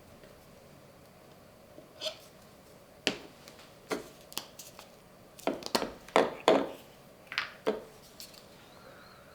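Hand work on a 3D-printed plastic battery box: a run of irregular light knocks and clicks, sparse at first and bunched most closely about five to seven seconds in.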